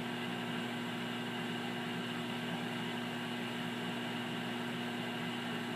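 Amana 2100-watt commercial microwave oven running at full power, a steady hum from its cooling fan and magnetron with an even whirr. It is a little louder than a household microwave.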